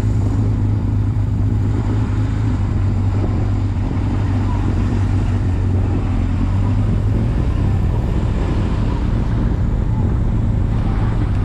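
Motorcycle engine running at a steady speed with wind and road noise, as heard while riding: an even, unchanging hum.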